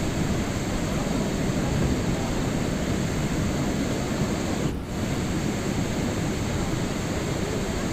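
Steady rain sound, a dense even hiss, with one brief dip a little past halfway.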